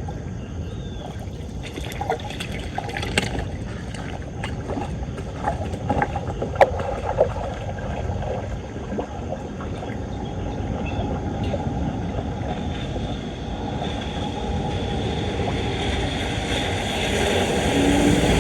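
Floodwater rushing into a street drain as a steady noise, with scattered knocks and scrapes in the first half. The rush grows louder near the end.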